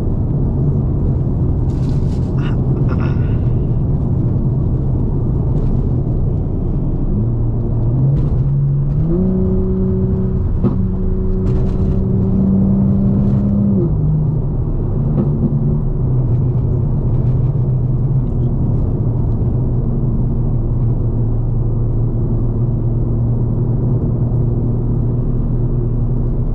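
Straight-piped BMW M4 Competition's twin-turbo inline-six droning steadily at cruise. About seven seconds in the note climbs in two steps as the car accelerates, holds for several seconds, then drops back to a steady lower drone.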